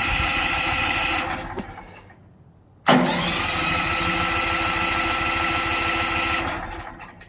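Sawmill engine being cranked by its electric starter: a steady cranking run that stops, then a second attempt of about four seconds that starts with a rising whine and also stops without the engine catching. It fails to start because the fuel has not been turned on.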